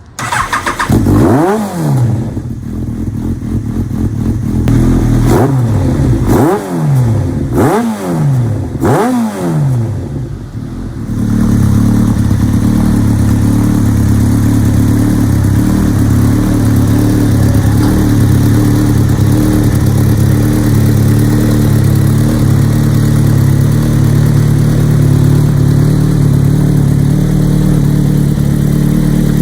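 Yamaha XJR1300's air-cooled inline-four through an Asahina full exhaust system, started and blipped about five times in quick throttle revs, then settling to a steady idle.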